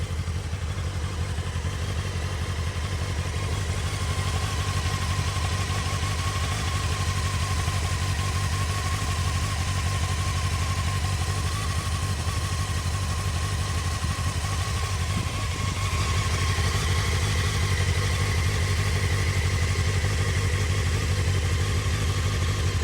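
Honda CBF600S inline-four engine idling steadily after a cold start, getting slightly louder from about two-thirds of the way through.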